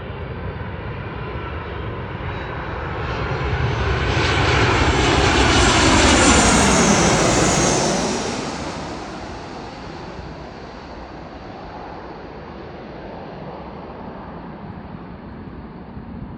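Airliner passing low overhead on landing approach. Its engine noise builds, peaks about six seconds in with a whine that slides down in pitch as it goes by, then fades to a steady distant rumble.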